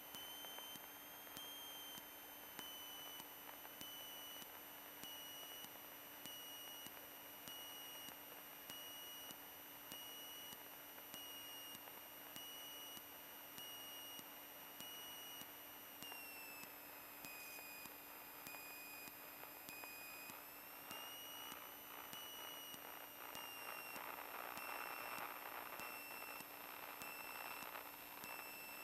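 Faint steady high-pitched electrical whine in a Cessna 152's cockpit intercom audio, over a low hum. The whine dips in pitch about two-thirds of the way through and rises again a few seconds later. A soft rush of cockpit noise grows toward the end.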